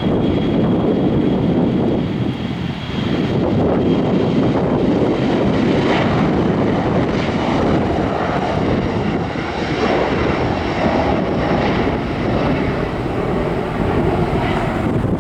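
Airliner engines running loud and steady with a dense rushing noise. A thin high whine fades out over the first few seconds.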